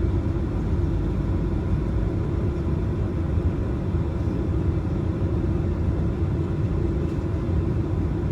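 Boeing 737-900 taxiing, heard from inside the cabin: a steady rumble of the CFM56 engines at taxi idle and the wheels rolling, with a faint constant whine.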